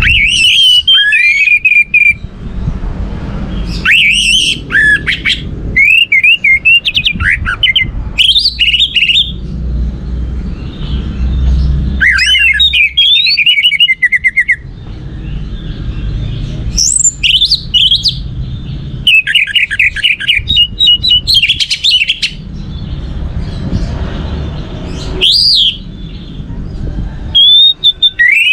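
Orange-headed thrush singing: loud, varied phrases of whistled notes, pitch glides and rapid trills, a new phrase every second or two with short pauses between, over a low background rumble.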